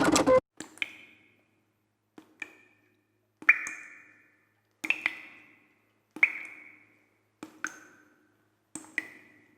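A series of about seven sharp taps, each struck twice in quick succession and followed by a short ringing ping that fades within a second, the pitch shifting slightly from one to the next. A loud dense burst of sound cuts off about half a second in.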